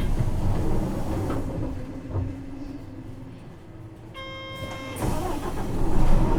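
Isuzu 6HK1 diesel engine of a city bus dying away to quiet as the idling-stop system shuts it off. A short electronic beep follows, then the engine restarts near the end and runs up loudly.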